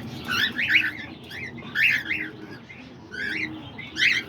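Small pet parrots in an aviary chirping: clusters of short, sharp chirps about once a second, with a faint low cooing underneath.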